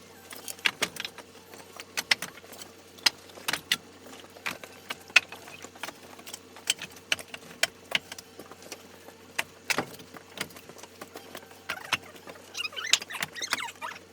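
Irregular sharp clicks and light knocks, a few a second at times, over a faint steady hum; near the end a twittering chirping sets in.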